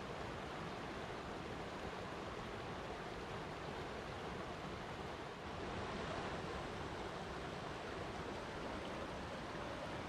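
Flowing water rushing steadily, with a brief dip in level about halfway through.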